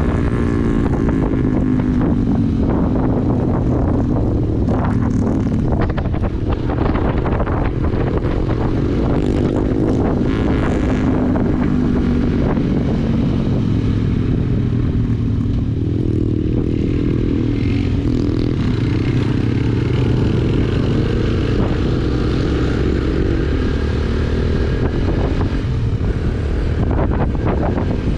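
A Yamaha YBR125G motorcycle's small single-cylinder engine running steadily under way, its pitch rising and falling a little, with wind rushing over the microphone.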